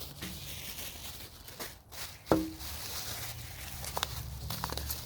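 Packing being handled: light rustling of wrapping material, with one sharp knock and a brief ring a little over two seconds in, and a few small clicks later.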